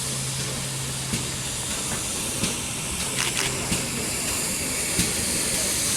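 Steam locomotive hissing steadily, with a low hum that fades out partway through and a few faint clicks.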